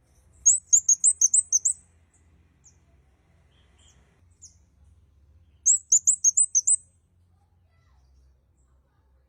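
Kemade kepala merah (red-headed kemade) singing: two quick trills of high, slurred chirps, about eight notes each, about half a second in and again just before the six-second mark, with a few scattered single chirps between.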